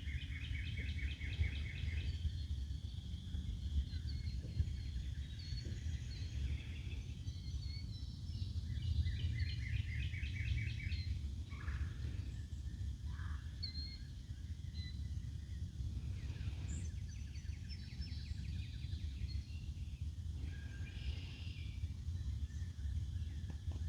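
Wild birds singing: a rapid trill repeats three times, with scattered short chirps in between, over a steady low rumble.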